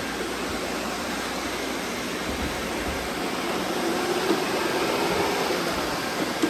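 Robot vacuums running: a steady whirring hiss from their suction fans and brushes. A faint hum joins about four seconds in, and there is a light knock near the end.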